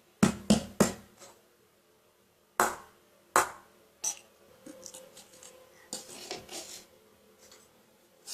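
Objects being handled on a tabletop: three sharp knocks in quick succession near the start, two more spaced out a little later, then light rustling and small clicks.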